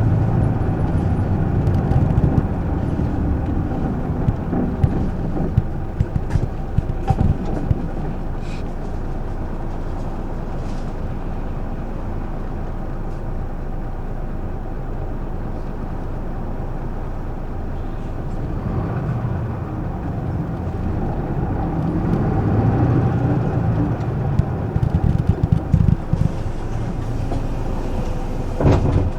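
Isuzu Erga city bus heard from inside the cabin: its diesel engine runs low and steady at a stop. The engine sound swells again about two-thirds of the way through, with a few clicks and a sharp knock near the end.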